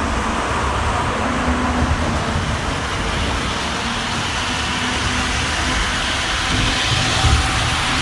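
Model train running on the layout's track, a steady rumble of motor and wheels on rail.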